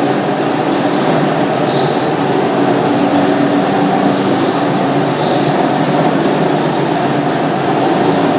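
Floor polishing machine running steadily, buffing a marble floor with a cedar-sawdust buff: a constant motor hum with a short higher squeak every three to four seconds.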